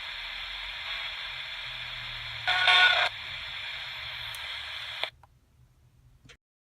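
Ghost box radio sweeping the FM band: a steady static hiss with a brief, louder burst of noise about two and a half seconds in. The static cuts off abruptly about five seconds in as the radio is switched off, leaving a faint click near the end.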